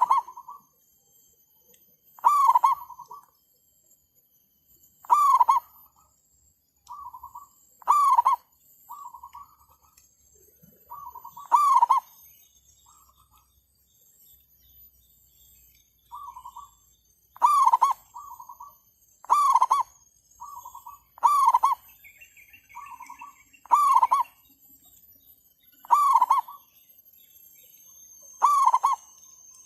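Zebra doves (merbuk) cooing in short repeated phrases about every two seconds, loud close phrases alternating with fainter ones. A decoy bird is calling with wild doves answering.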